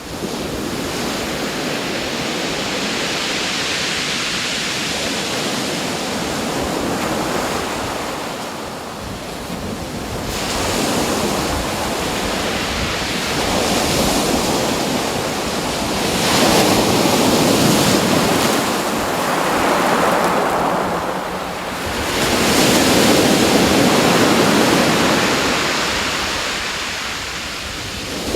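Surf washing ashore: a steady rush of water that swells and eases every few seconds.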